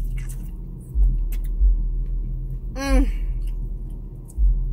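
A person chewing food with wet mouth noises, over a low rumble and several dull thumps. About three seconds in there is one short hummed 'mm' that rises and falls in pitch.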